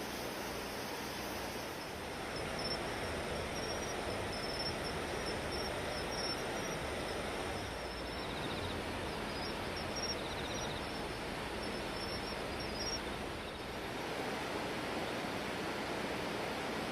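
Steady rushing of the typhoon-swollen Tomita River in flood, with faint high chirping over it for most of the stretch.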